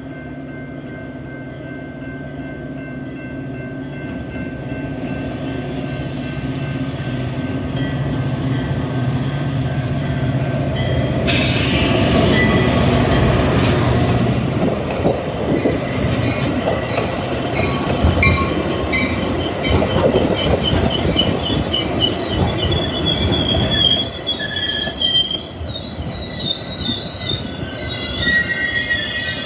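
Metra commuter train with its diesel locomotive drawing into the station: a low diesel drone that grows louder, a loud rush as it passes close about 11 seconds in, then wheels and brakes squealing as it slows.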